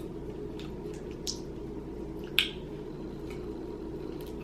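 Wet mouth sounds of sucking the juice out of a boiled crawfish head: two short, sharp slurps about a second apart, the second louder, over a steady low hum.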